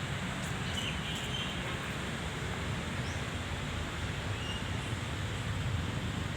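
Steady outdoor background noise with a low rumble, broken by a few faint, short, high chirps.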